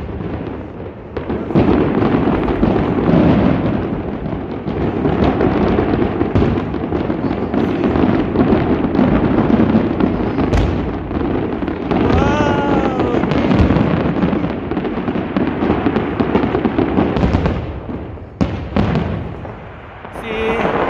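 A fireworks display going off in a dense, continuous run of bangs and crackles, easing off briefly twice near the end. About twelve seconds in, a short pitched tone rises and then falls.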